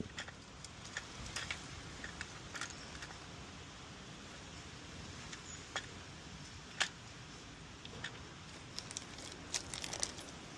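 Light clicks and rattles of small plastic cleaner parts being handled and fitted, at irregular intervals, with a quick cluster near the end.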